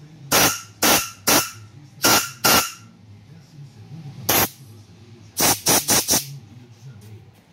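A compressed-air blow gun fires about ten short blasts of air, blowing out the oil passages of a Honda Titan 150 engine case to make sure none is blocked. Five blasts come in the first couple of seconds, one comes midway, and four come in quick succession after that.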